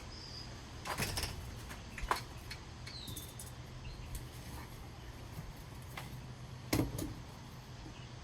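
A few scattered light clicks and knocks from hand work on a screen door's drawer-slide track, with a sharper knock about seven seconds in. Under them runs a steady low hum, and there are two short high chirps, one falling, about three seconds in.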